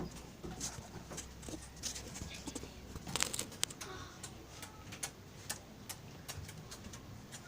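Eating: a stream of short, irregular crunchy clicks as food is chewed, with a denser run of them about three seconds in.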